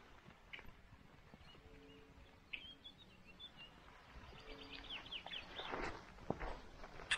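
Faint outdoor bird calls: two short runs of quick high chirps a few seconds apart, with a brief rustle near the end.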